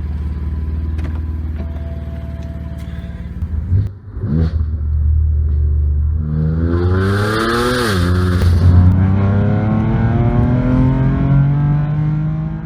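BMW M4's S55 twin-turbo straight-six with Akrapovic downpipes and an aftermarket exhaust, running at a steady low note, with a short blip about four seconds in. It then pulls away: revs climb, drop sharply once at a gearshift, and climb steadily again.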